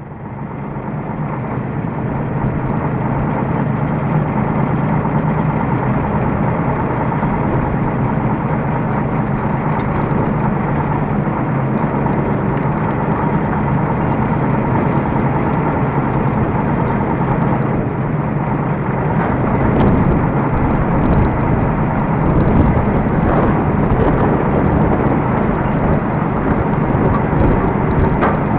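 T-150K tractor's diesel engine running steadily at an unchanging speed.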